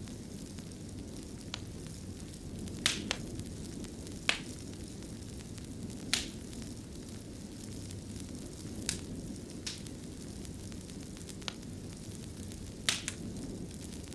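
Wood fire burning in a fireplace: a steady low rumble of flame with sharp, irregular crackles and pops, about eight in all, two close together near 3 s in.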